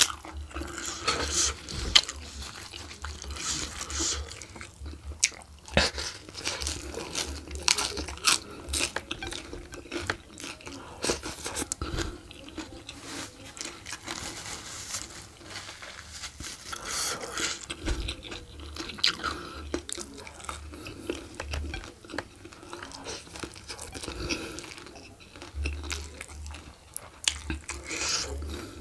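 Close-miked chewing and crunching of food with hands, many small wet clicks throughout. The crunch is from raw leafy greens (lalapan), eaten alongside rice and spicy oxtail.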